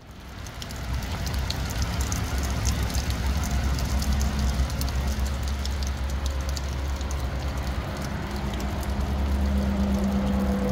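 Rain mixed with hail falling on pavement and leaves: a steady hiss dotted with many sharp little taps, over a steady low rumble.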